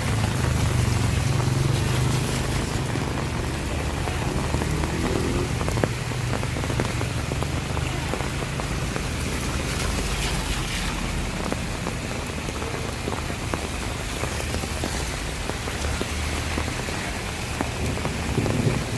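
Steady rain falling and pattering on surfaces. A low rumble runs underneath, strongest in the first few seconds.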